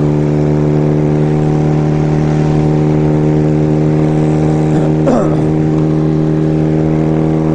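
Kawasaki 440 parallel-twin motorcycle engine running at a steady cruising speed, its pitch holding constant, with a low rumble of wind and road underneath.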